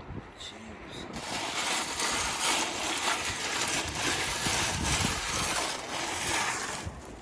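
Creek gravel and water rattling and splashing through a sifter screen as it is shaken. It starts about a second in and stops just before the end.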